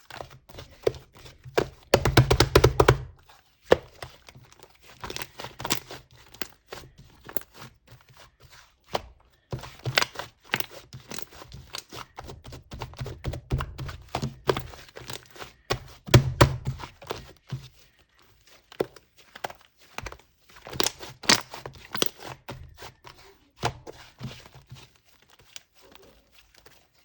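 White fluffy clay slime being squished, pressed and poked by hand: dense runs of small sticky clicks and crackles with soft thuds. The loudest spells come about two seconds in, around the middle, and again a few seconds later.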